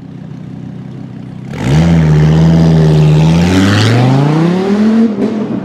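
A high-performance car engine comes in loudly about one and a half seconds in, runs at a steady pitch, then rises in pitch as it accelerates and drops again near the end.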